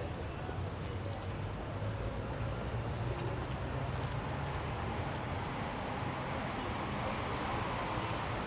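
Steady low rumble of distant engines in a busy city street, swelling slightly toward the end.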